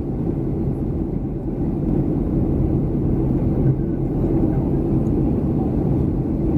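Steady cabin noise of a Boeing 737-300 in flight: the low, even rumble of its engines and the airflow as heard inside the passenger cabin, with a steady hum underneath.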